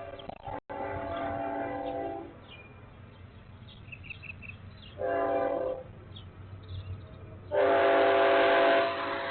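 Train horn sounding blasts, each a chord of several steady tones: a long blast, then a short one about five seconds in, then a louder long one near the end, in the long-long-short-long pattern of a grade-crossing signal. A few faint small-bird chirps come between the blasts.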